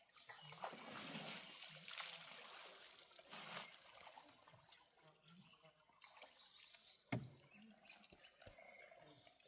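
Faint water splashing and trickling in uneven bursts, as an elephant bathes, with one sharp knock about seven seconds in.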